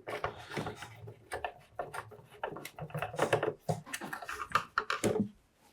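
Irregular clicks, taps and scrapes of a screw being fitted and driven into the plastic back housing of a Makita site radio.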